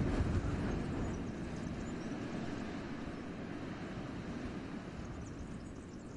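Wind blowing through a winter forest, a low rushing with a stronger gust at the start that slowly eases off.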